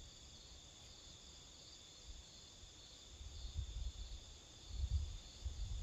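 Steady high-pitched chirring of an insect chorus, faint and even, with a few low rumbles about three and a half and five seconds in.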